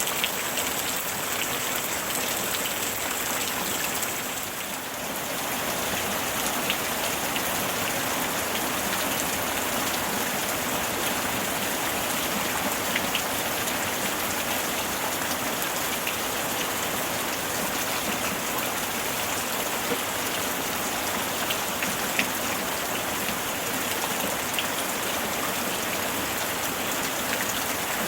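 Steady summer rain falling, with scattered louder drops ticking now and then; the rain eases briefly about five seconds in.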